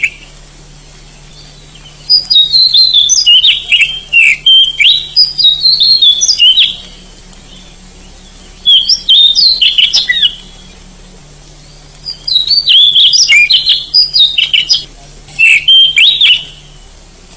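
Oriental magpie-robin singing: three bursts of rapid, varied whistles and harsh notes, separated by pauses of about two seconds.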